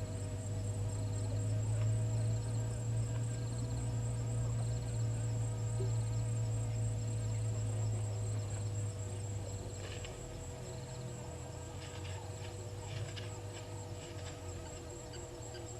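Insects trilling steadily in the bush, with a short chirp repeating at an even pace and a low steady hum underneath that fades somewhat after the first half. A few quick clicking calls come in about ten to fourteen seconds in.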